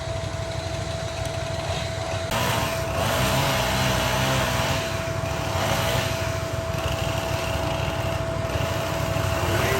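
A small engine running steadily with a thin steady whine. It gets louder about two seconds in.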